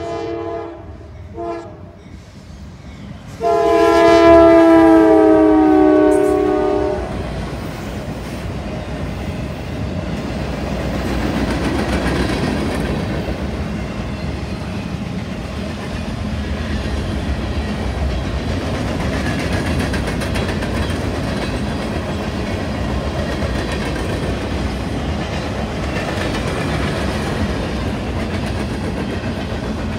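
Norfolk Southern freight locomotive's multi-chime horn: a blast ending just after the start, a short toot about a second and a half in, and a loud long blast from about three and a half to seven seconds whose pitch falls slightly as the locomotive passes. Then comes the steady rumble and clickety-clack of the mixed freight cars rolling past.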